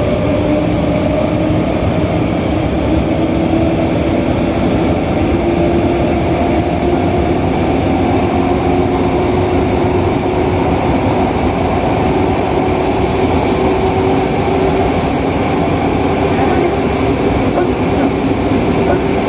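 Nagoya subway Tsurumai Line 3000 series electric train running through the tunnel, heard inside the car: a steady rumble of wheels and running gear with a motor whine whose pitch slowly rises as the train picks up speed. About two-thirds of the way in, a high hiss joins the sound.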